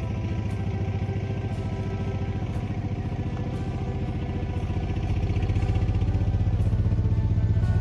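An engine running steadily at idle, growing a little louder about five seconds in.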